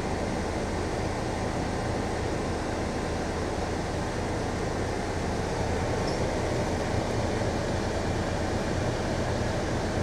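Heavy diesel crane engine running steadily, a constant low hum under a broad rumble.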